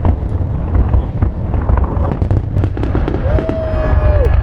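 Fireworks display going off in quick succession: continuous deep booms with many sharp crackles and pops. A little past three seconds in, a short whistling tone holds for about a second and then falls away.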